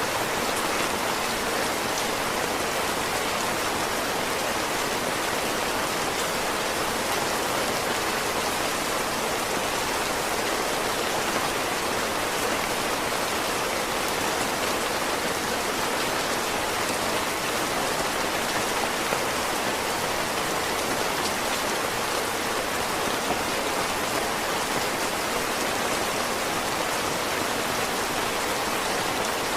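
Heavy rain falling steadily, a dense even hiss with faint individual drop ticks here and there.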